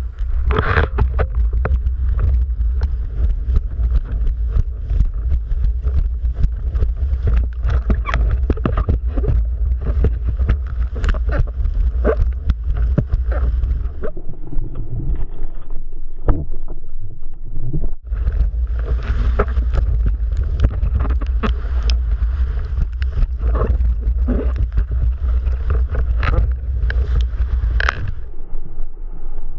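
Strong wind buffeting the microphone as a heavy low rumble, with constant splashing and slapping of water from a windsurf board planing over choppy water. The wind rumble drops away for a few seconds around the middle and again near the end.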